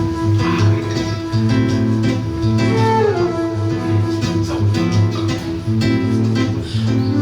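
Seven-string acoustic guitar playing a waltz, with plucked melody notes over a rhythmic bass line.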